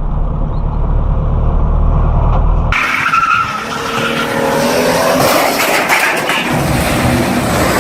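Low steady rumble of a moving vehicle, then, about three seconds in, an abrupt change to louder car noise with tyres squealing and skidding.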